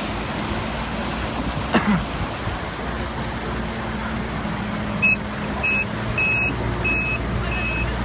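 Excavator's diesel engine running with a steady hum, a sharp knock about two seconds in, then its reversing alarm beeping evenly, about every 0.6 seconds, from about five seconds in.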